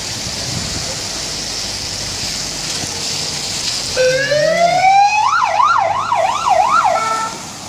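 Heavy storm rain hissing steadily. About four seconds in, an electronic siren sounds over it: one rising tone, then a fast up-and-down wail, cutting off after about three seconds.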